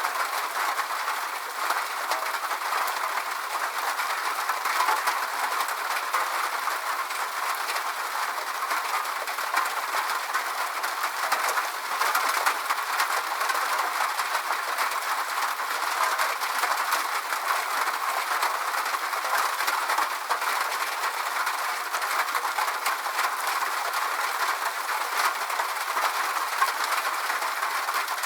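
Steady rain: an even, unbroken hiss laced with countless fine drop ticks.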